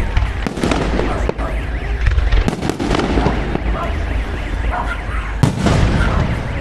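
Fireworks display: aerial shells bursting with a series of sharp bangs at irregular intervals over a constant low rumble, one of the strongest a little over five seconds in.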